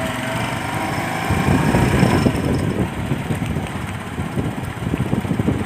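Motorcycle running while riding over a rough road, with a dense, jolting low rumble that grows heavier from about a second in.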